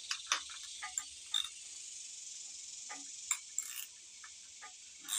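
Steady, high-pitched insect chirring, with scattered sharp clicks and light knocks of hand tools on the engine.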